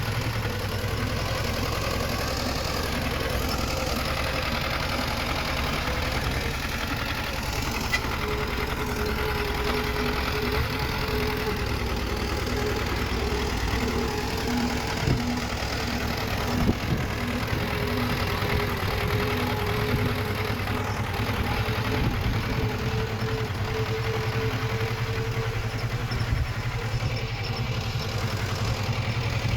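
Komatsu D20 bulldozer's diesel engine running steadily, with a faint on-and-off whine through the middle and a few short metallic clanks.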